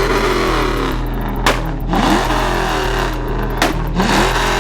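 A car engine revved in quick repeated blips, each a short rise in pitch, over a steady low engine hum, with a few sharp cracks.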